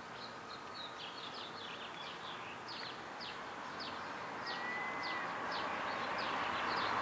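Small birds chirping, short quick calls about twice a second, over a steady rushing noise that grows louder toward the end.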